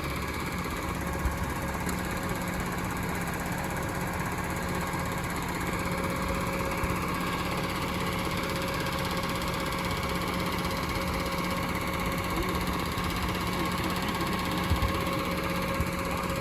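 Side-loader garbage truck's engine running steadily, with a couple of brief light knocks.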